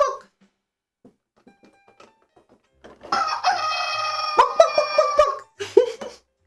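Rooster crowing: the end of one crow right at the start, then after a pause a second long crow about three seconds in, followed by a few short clucks near the end.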